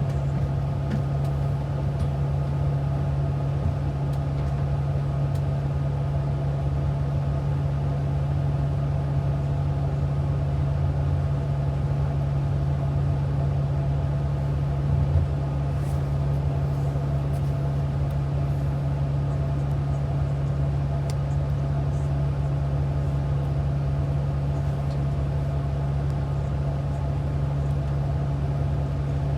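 Steady drone of a transit bus driving, heard from inside the cabin: a constant low engine and drivetrain hum with road noise. There is one brief knock about halfway through.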